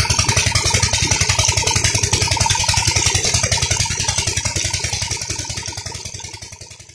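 16 HP Petter diesel engine running at a steady speed with a rapid, even beat, growing fainter near the end.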